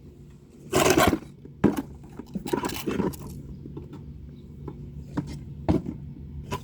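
Hands digging through potting soil and handling containers and potatoes: rustling and scraping, with two louder scrapes about one and three seconds in and a few sharp knocks.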